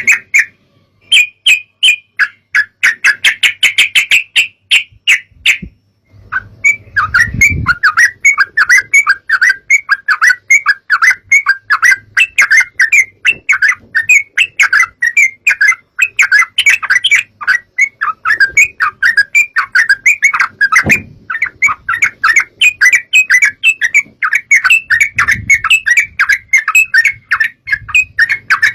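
Yellow-vented bulbul (trucukan) song: a fast, continuous chatter of short notes, with a brief pause about six seconds in.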